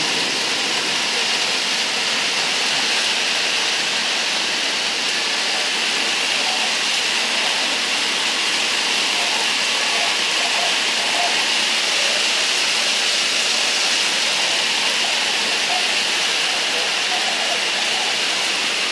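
Rain falling steadily on a wet concrete rooftop floor, an even hiss.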